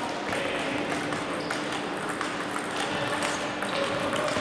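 Table tennis balls striking paddles and tables at many tables at once: an irregular, overlapping patter of sharp clicks in a large hall.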